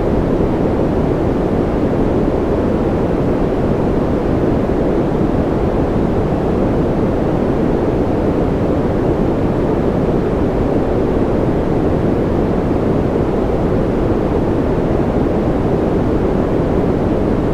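Continuous electronic white noise for sleep, a steady, unchanging rush without breaks. It sits mostly in the lower-middle range, deeper than a bright hiss.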